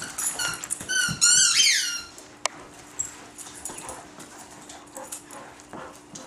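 A squeaky dog toy squeaks about four times in quick succession in the first two seconds as the dogs play with it, the last squeak falling in pitch. Quieter clicks and taps of play follow, with one sharp click about two and a half seconds in.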